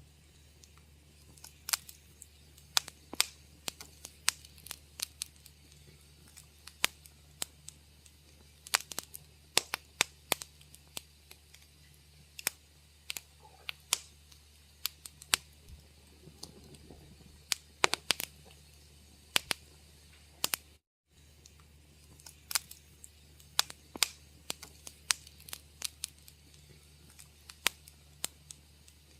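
Wood fire crackling in a fireplace: irregular sharp pops and snaps, several a second, some much louder than others, over a faint low steady hum. The sound cuts out completely for a moment about two-thirds of the way through.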